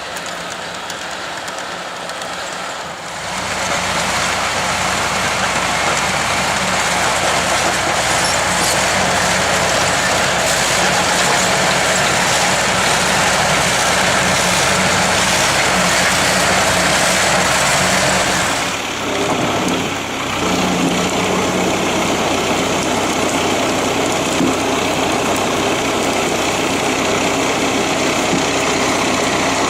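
An engine running steadily at high speed from about three seconds in, dipping briefly about two-thirds of the way through and then picking up again.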